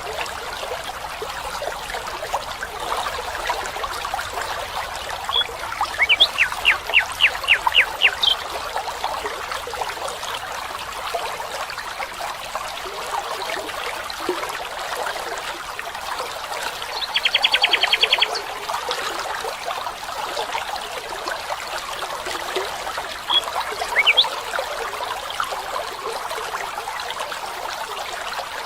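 Water trickling steadily, as of a small stream, with birds calling over it: a run of about eight quick notes about six seconds in, a short rapid trill near the middle, and a couple of notes near the end.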